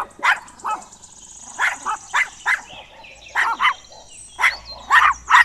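A puppy yapping: short, high barks and yips in quick clusters of two or three.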